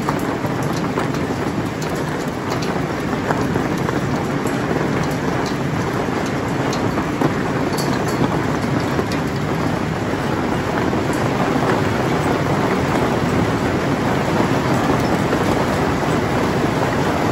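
Heavy rain with small hail pouring down in a thunderstorm: a steady, even downpour with scattered sharp ticks.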